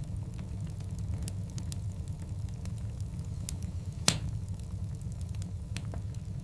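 Large logs burning in a wood fire: scattered crackles and small pops over a steady low rumble, with one loud sharp pop about four seconds in.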